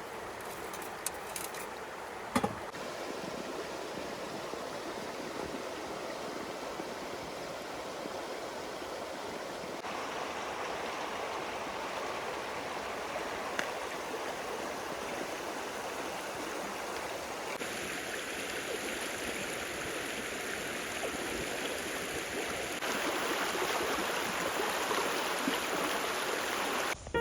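Running water, a steady rushing like a stream, that shifts abruptly in tone and loudness a few times. There is a single sharp click about two seconds in.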